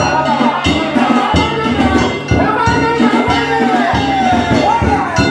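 Danjiri festival music: drum and hand-gong strikes keep up a beat while a pitched melody slides up and down over them.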